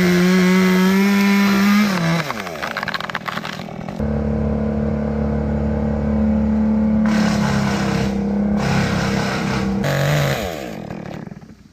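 Chainsaw run at full throttle twice: a short burst of about two seconds, then a longer run of about six seconds. Each time the engine pitch glides down as the throttle is let off.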